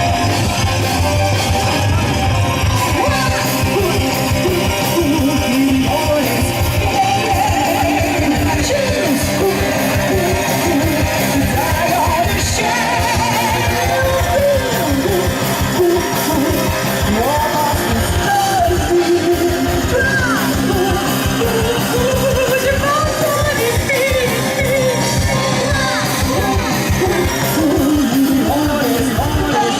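Rock band playing: electric guitar and drums keeping a dense steady beat, with a singing voice coming in a few seconds in and carrying a melody over the band.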